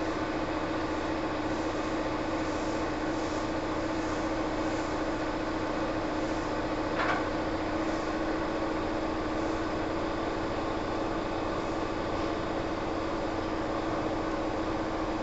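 Steady hum and whir of a Kintetsu 1810 series train car's onboard equipment while it stands at a station, with one brief higher-pitched squeak about seven seconds in.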